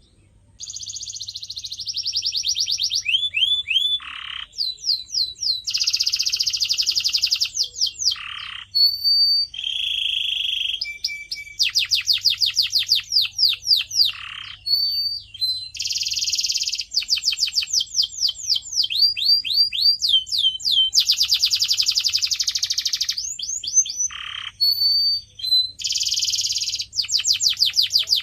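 Canary singing a long song that starts about half a second in. It changes phrase every second or two, moving between fast trills of repeated sweeping notes, dense rattling rolls and short clear whistles.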